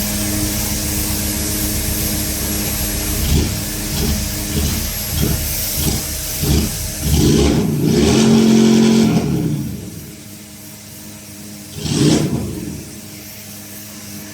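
Power sander running against a car body panel, its hum swelling and dipping as it is worked, ahead of priming. About nine seconds in it winds down and stops, then gives one short burst near the end.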